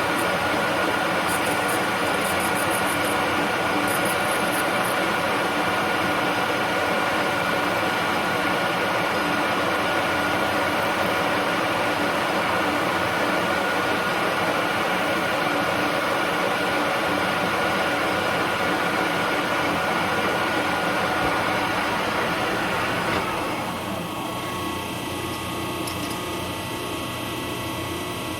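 Machine tool running while a cutter works nylon spacer stock: a steady machining noise with a constant whine over it. About 23 seconds in the cutting noise drops away, leaving the quieter run of the machine's gearing.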